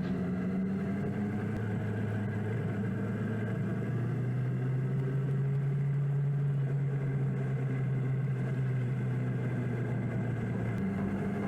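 2006 Yamaha R1's inline-four engine running steadily under way. Its pitch rises a little about four seconds in, holds, then drops back near the end.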